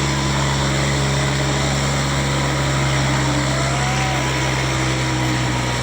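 Tractor diesel engine running steadily at a constant speed, with a low, even hum.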